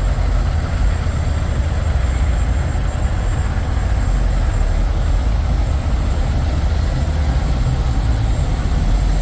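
Steady low rumble of an idling diesel semi-truck engine, with a thin high steady whine above it.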